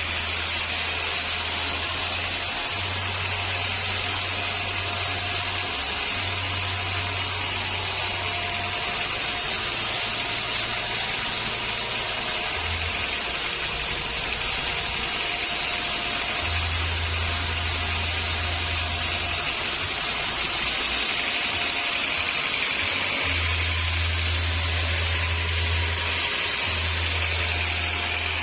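Sawmill saw machinery running steadily, a continuous hissing whine of a saw working through wood, with a low hum that comes and goes.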